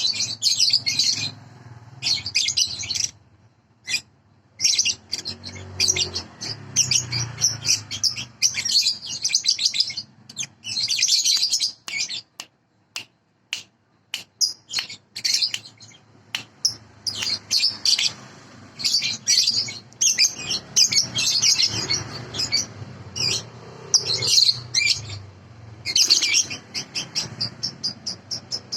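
A young cage bird singing in rapid bursts of high chirps and trills, with short pauses between phrases.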